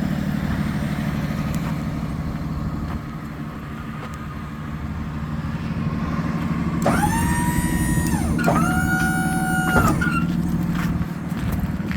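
Freightliner M2 box truck's diesel engine idling steadily. Midway through, its horn sounds in two blasts of about a second and a half each, the pitch bending at the start and end of each.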